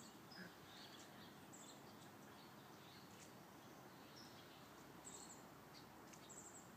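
Near silence, with a few faint, brief, high bird chirps scattered through.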